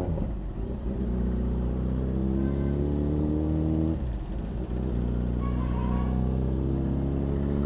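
Motorcycle engine pulling under acceleration, its pitch climbing steadily, then dropping back about four seconds in and climbing again.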